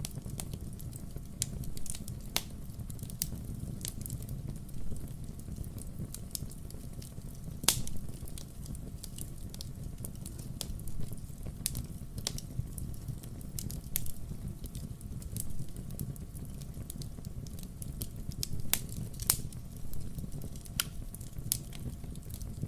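Burning firewood crackling and popping at irregular intervals over a steady low rumble, with one sharper pop about eight seconds in.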